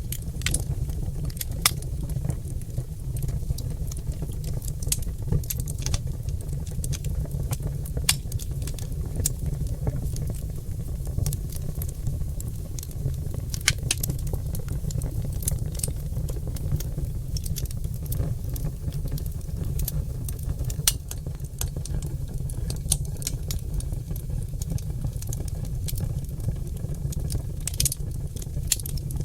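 Oak logs burning in a fireplace, crackling with frequent sharp, irregular pops and snaps over a steady low rumble of the fire.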